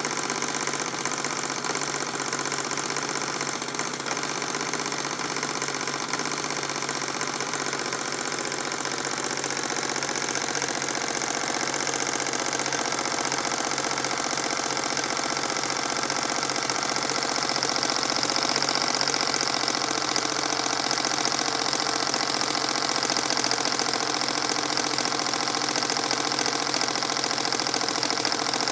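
Model marine steam engine running steadily, a fast mechanical clatter with a strong hiss that grows a little louder about halfway through.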